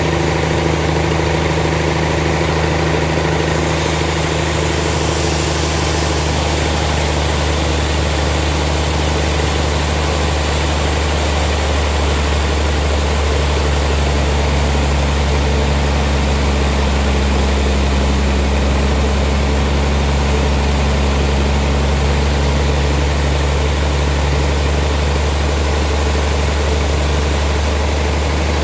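Sawmill machinery running steadily with a loud, continuous low engine hum.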